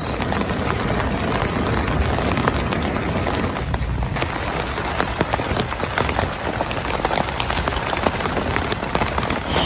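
Heavy rain falling steadily, with many separate drop hits sounding on a surface.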